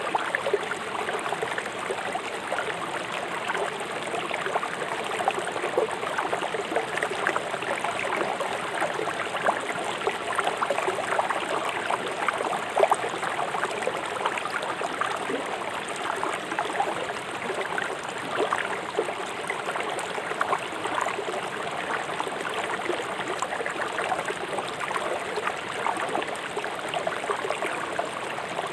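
River water rushing fast over stones: a steady flow with constant small splashes and gurgles.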